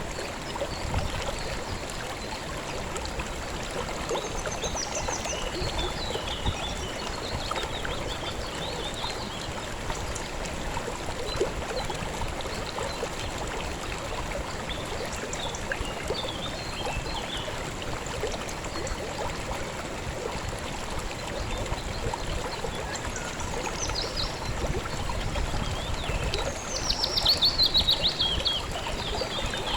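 River water running steadily, with birds chirping now and then. Near the end a bird gives a loud run of quick falling notes, the loudest sound here.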